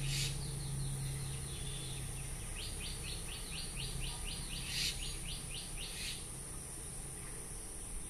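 A bird calling: a rapid run of about a dozen short chirps, roughly seven a second, in the middle, with a few single chirps before and after it.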